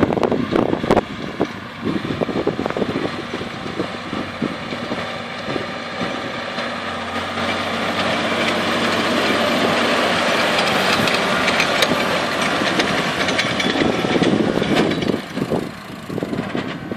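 Tractor engine running with a John Deere F440R round baler working in wet grass: a dense mechanical clatter with frequent knocks, getting somewhat louder and steadier in the middle stretch.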